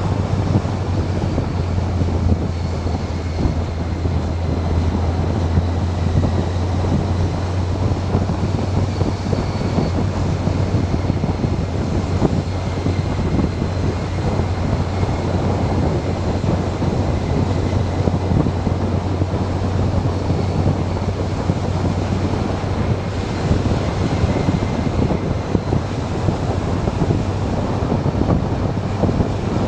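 Motorcycle riding at a steady speed: wind rushing over the microphone over a constant low engine drone.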